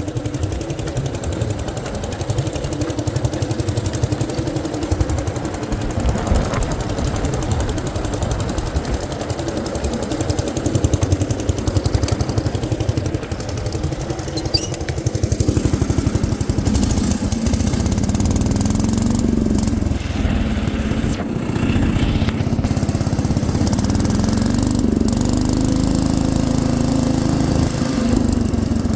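Allis Chalmers B210 garden tractor's engine running under load as it drives the tiller attachment through the soil. The engine note rises and falls as it labours and grows louder from about halfway through.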